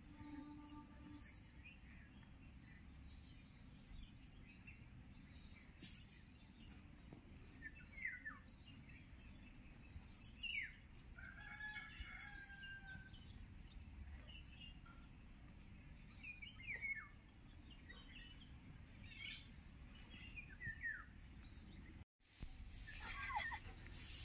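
Birds calling faintly, with short falling chirps every few seconds and one longer held call about halfway through, over a low steady rumble of outdoor background noise. The sound drops out for a moment near the end.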